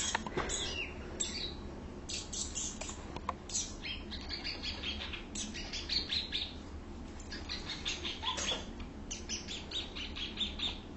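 Cockatiel chirping and chattering in bursts of short high chirps, with a quick run of repeated chirps over the last few seconds.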